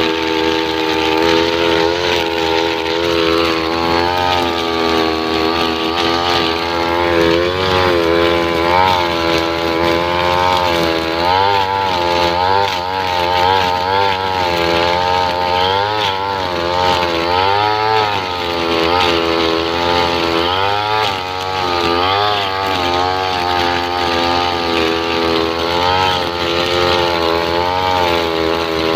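Two-stroke brush cutter running with a nylon-line trimmer head, cutting grass. The engine's pitch keeps rising and dipping as the line bites into the grass.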